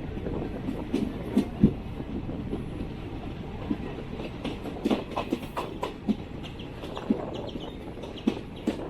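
Indian Railways AC 3-tier passenger coach running along the track: a steady rumble with irregular wheel clacks and knocks over the rails.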